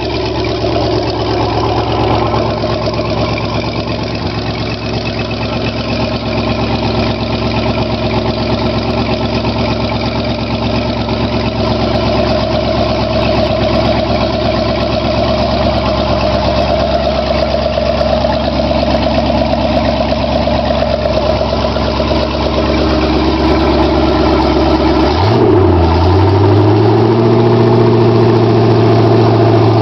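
Freshly rebuilt Chevrolet 350 small-block V8 marine engine running on its first test after the rebuild, idling steadily. About 25 seconds in it is revved up to a higher steady speed, then given another quick rev near the end.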